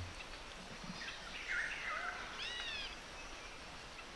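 Forest ambience with birds calling over a steady faint hiss: a few short chirps about a second in, then a quick run of arching calls about two and a half seconds in.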